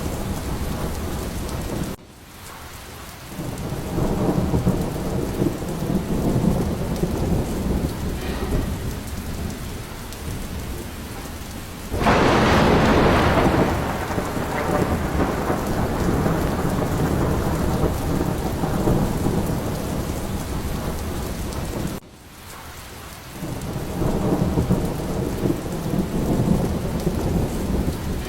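Thunderstorm: steady rain with thunder rumbling low and rolling. A sharper, louder thunderclap about 12 seconds in fades over a couple of seconds. Twice the sound drops off abruptly and builds back up.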